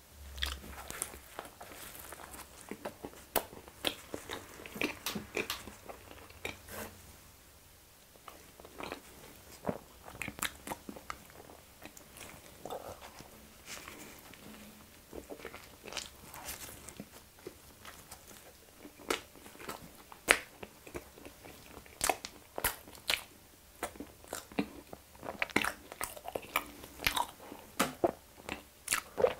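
Close-miked chewing and mouth sounds of soft chocolate-cream-filled conch bread being eaten: irregular runs of sharp smacks and clicks, with short pauses between mouthfuls.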